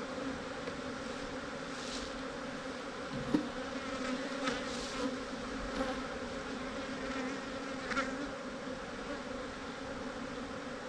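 Honeybees of an opened, defensive colony buzzing in a steady, dense hum, with a few light knocks, one sharp one about a third of the way in.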